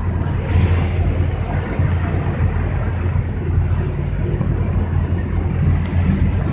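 Motorboat engine running steadily under way: a low, even drone with a constant rush of water and wind noise over it.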